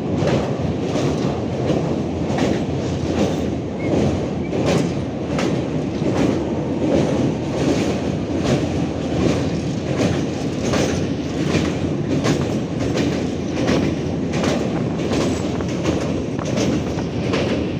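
Indian passenger train running across a river bridge, heard from inside the coach: a steady rumble of the coaches with a repeated clickety-clack of the wheels over the rail joints.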